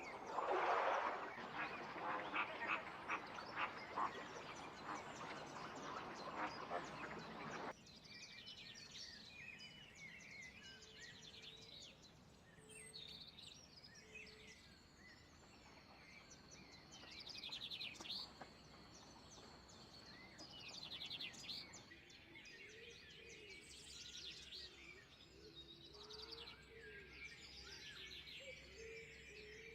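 Birds calling. A dense chorus of many short calls fills the first several seconds and cuts off abruptly. Scattered high chirps and calls follow, with one long, steady high note in the middle.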